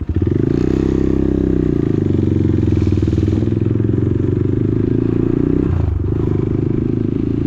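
Motorcycle engine running as the bike rides along, its pitch easing down a second or two in, with a brief drop in level about six seconds in.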